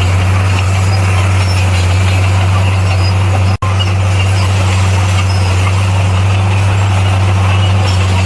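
A heavy construction machine's diesel engine runs steadily with a deep, unchanging drone. The sound cuts out for an instant a little over three and a half seconds in.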